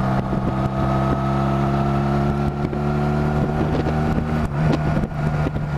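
Honda Rebel 250 motorcycle engine running steadily at road speed, its pitch rising a little over the first few seconds, with wind rushing over the microphone.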